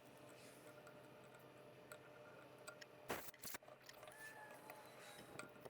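Near silence, with a pair of faint sharp clicks a little over three seconds in and a few smaller ticks.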